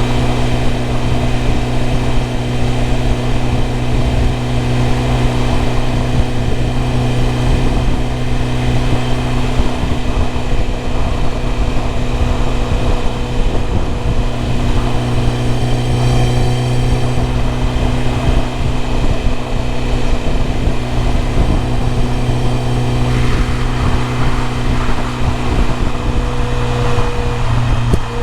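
BMW E30 M3's S14 four-cylinder engine idling steadily, an even, unchanging hum.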